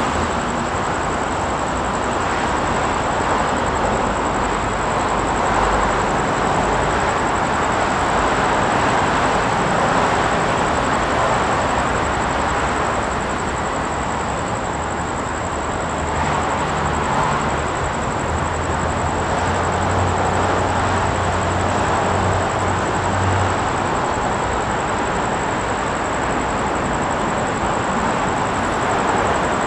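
Train running along the track: a steady rumble of wheels on rails, heard from on board.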